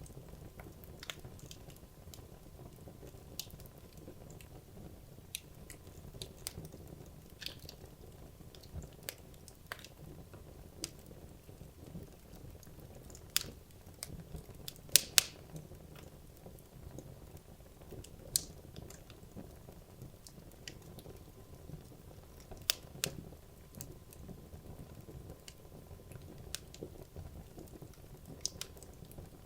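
Wood logs burning in a fireplace: a soft low rumble of flame with irregular sharp crackles and pops, the loudest a quick pair about halfway through.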